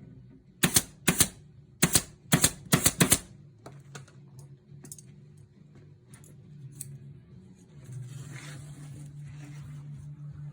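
A quick run of about eight sharp mechanical clicks or strikes over two and a half seconds, then a few faint clicks, and a steady low hum with a hiss setting in near the end.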